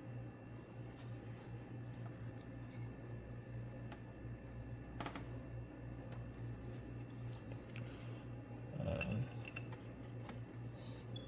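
Light, scattered clicks and taps of a hand socket and small metal and plastic parts being handled, over a steady low hum. A louder knock comes about nine seconds in.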